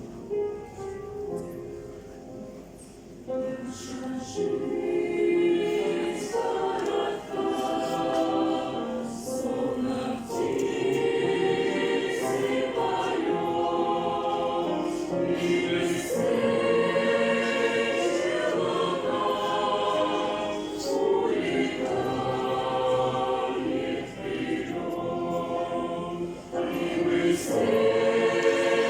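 Music: a choir singing a Christian song, coming in loudly about three seconds in after a quieter opening.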